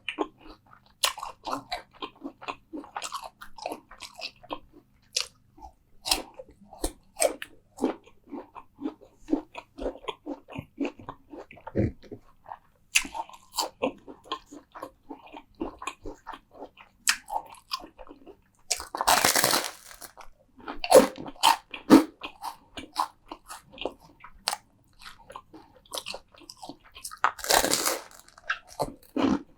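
Close-miked ASMR eating: a person biting and chewing crunchy food, a steady run of irregular crisp crunches and mouth clicks. Two longer noisy swishes of about a second each come in, one about two-thirds of the way through and one near the end.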